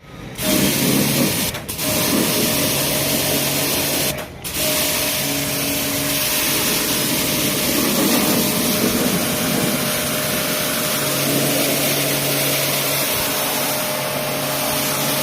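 Electric pressure washer running and spraying water during air conditioner cleaning: a steady motor hum under a loud hiss, broken by two brief drops about a second and a half and four seconds in.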